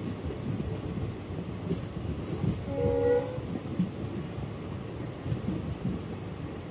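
Moving passenger train heard from an open coach window: a steady low rumble of wheels on rails with wind and irregular knocks. About halfway through, the locomotive horn sounds one short blast.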